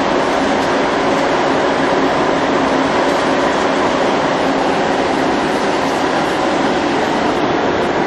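Ruralmac box dryer's blower running, a loud steady whir with a faint hum.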